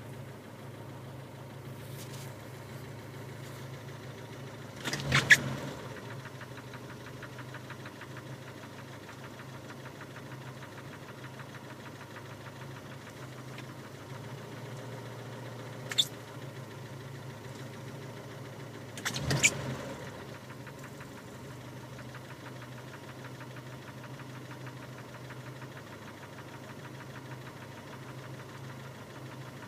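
Car engine idling steadily with a knock in it. Three short, sharp, loud clicks break through the idle, the first the loudest.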